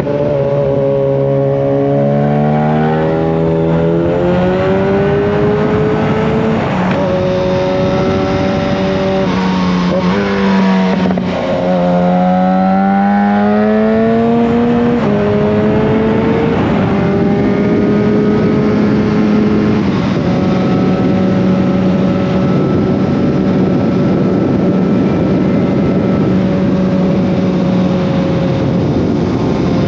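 Yamaha FZ1 Fazer's inline-four engine running loud through a Mivv GP exhaust with the dB killer removed, under way. Its note climbs and drops with throttle and gear changes, dips and climbs again about halfway through, then holds a steady pitch.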